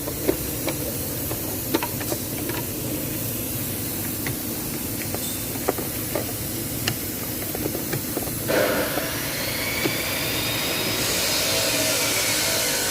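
Scattered small clicks and taps of ECU wiring connectors being handled and plugged in, over a steady hiss that gets louder and brighter about eight and a half seconds in.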